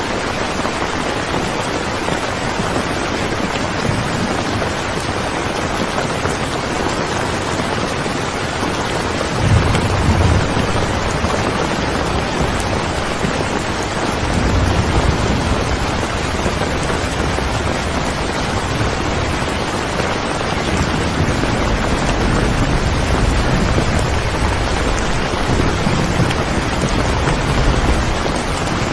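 Steady rain falling, an even hiss, with low rolling rumbles of thunder starting about ten seconds in and coming back several times later.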